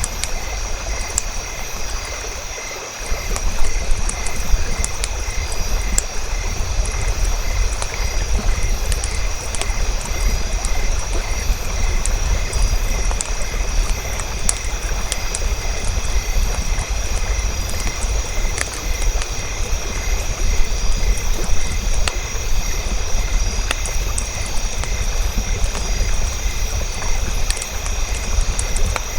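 Campfire burning, with scattered sharp crackles and pops over a steady low rumble that dips briefly a few seconds in.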